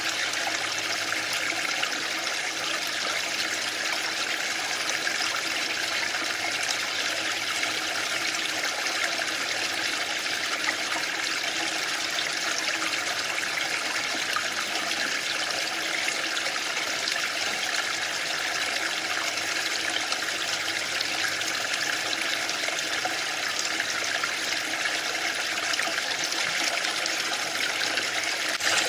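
Waterfall: a steady, unbroken rush of falling water, with no swells or pauses.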